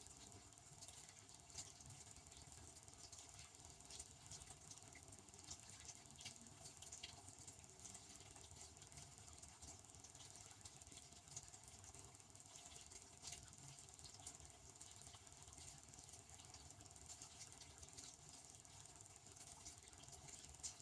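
Devanti benchtop dishwasher running, faint: a steady hiss with many small irregular ticks, like water spray pattering against the inside of the tub and the dishes.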